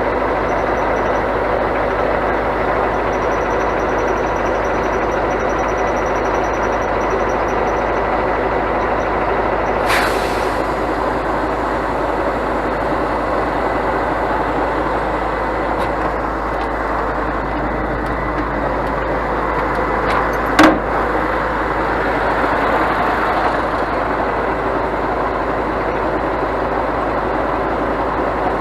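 Scania truck's diesel engine running steadily, with a short knock about ten seconds in and a sharp bang about twenty seconds in.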